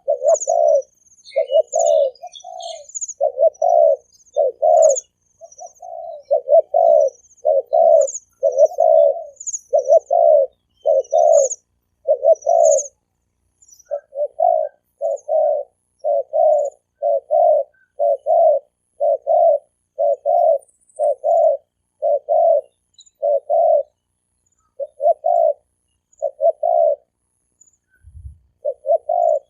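Male spotted dove cooing in a long, fast run of short low coos, about one a second with brief pauses. Small birds chirp faintly and high in the first half.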